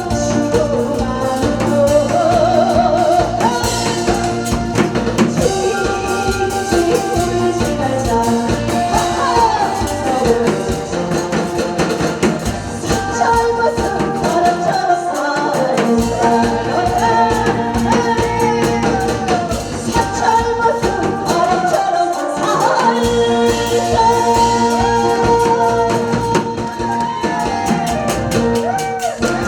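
A singer singing a Korean trot song with wavering vibrato over backing music with held keyboard chords and a drum beat. The bass and drums drop out briefly twice near the middle.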